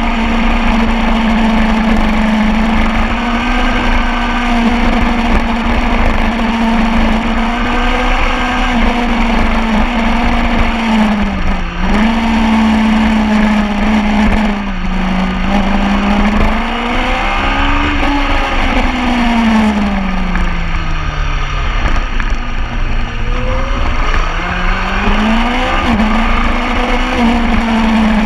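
Superbike engine running hard on a race track, its pitch held high with two brief dips, then falling away for a few seconds as it slows and climbing again as it accelerates, over a steady rush of noise.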